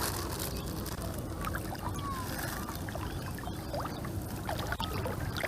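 Water sloshing and trickling steadily, with scattered faint short high blips.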